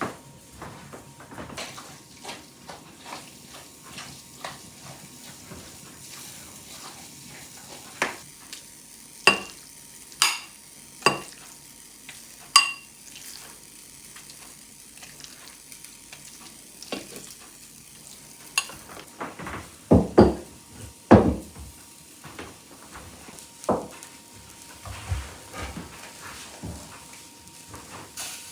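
Food frying in a pan with a steady low sizzle while a utensil stirs and clinks against the pan and dishes. There are several sharp, ringing metal clinks a little after nine seconds in, and a few duller knocks past twenty seconds.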